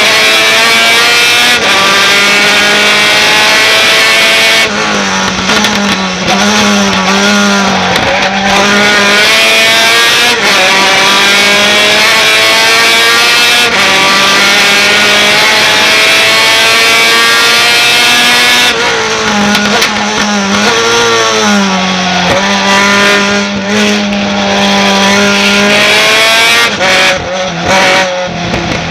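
Racing pickup truck engine under hard acceleration, pitch climbing through each gear and dropping at the upshifts. It brakes and downshifts about five seconds in and again about nineteen seconds in, then pulls hard again.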